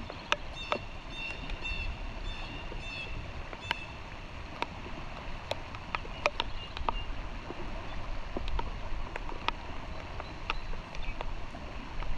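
Steady water noise of a trout stream in the rain, with scattered sharp ticks of raindrops coming irregularly throughout. A bird chirps a quick run of short notes during the first three seconds.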